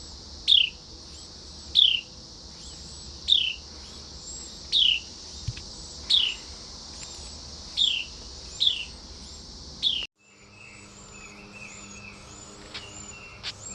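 A bird repeating a loud, sharp, downward-sliding chirp eight times, about every second and a half, over a steady high hiss of crickets. The calls stop about ten seconds in.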